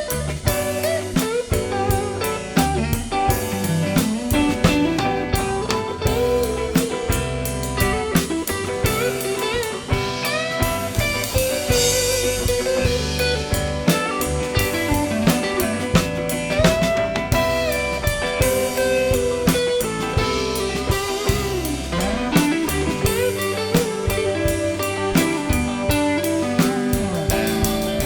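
Live blues-rock band playing an instrumental break: a lead guitar line with bent notes over drum kit and bass.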